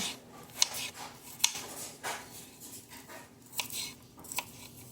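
Scattered light clicks and knocks of kitchen items being handled on a counter, a few sharper taps among them.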